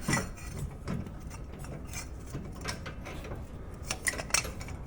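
Scattered metallic clicks and clinks from an inner tie rod tool and breaker bar on the steering rack, as the just-loosened inner tie rod is worked free.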